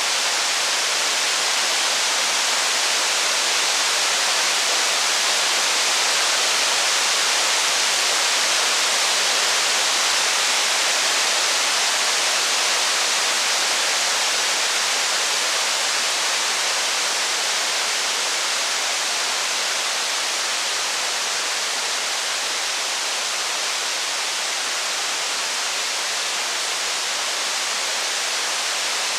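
Steady, heavy rain falling, an even hiss with no thunder or single crackles standing out.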